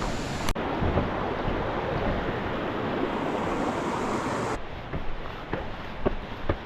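Waterfall water rushing in a steady, even roar that cuts off abruptly about four and a half seconds in, leaving a quieter background with a few sharp clicks.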